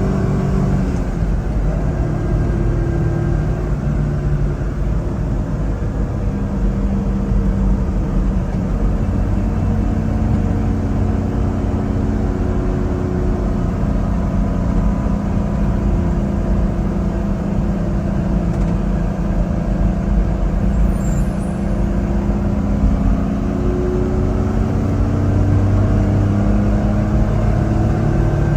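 1995 Mitsubishi Minicab kei truck's small engine running while driving, its pitch slowly rising and falling with engine speed, over steady low road rumble.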